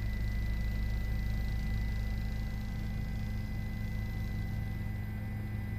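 Steady low hum with a thin, steady high whine and faint hiss over it, unchanging: the background noise of an open live audio feed.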